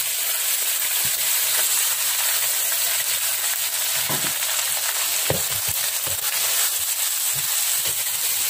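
Wet ground onion, garlic and ginger paste sizzling in hot oil in a steel wok, a steady frying hiss. It is stirred with a wooden spatula, with a few dull knocks against the pan.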